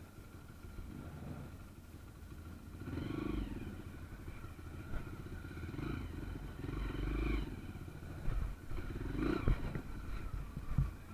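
Small trail motorcycle engine running at low speed, the throttle opened and eased off several times so it swells and drops, with a few knocks as it rides over rough ground.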